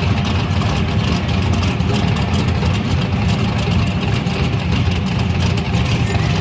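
Car engine idling steadily, with most of its sound in a low rumble.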